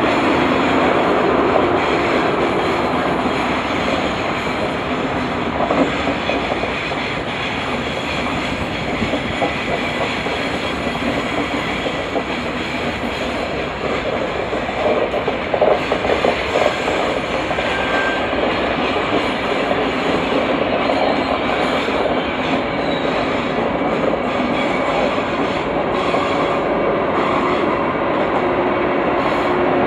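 Trenitalia Eurostar City long-distance passenger train rolling past, a steady noise of carriage wheels on the rails with clacking as the wheels pass over the track, a few louder clacks about halfway through.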